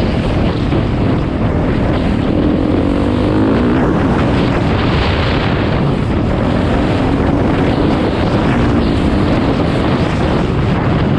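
Motocross dirt bike engines running, their pitch rising and falling as they rev.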